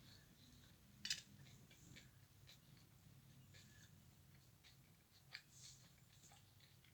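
Quiet eating sounds: a few small sharp clicks and soft chewing noises over a faint low hum, the loudest click about a second in and another a little after five seconds.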